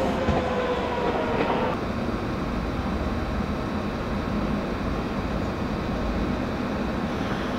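Meitetsu electric train moving along a station platform: a slightly falling whine that stops about two seconds in, then a steady rumble of wheels on the rails.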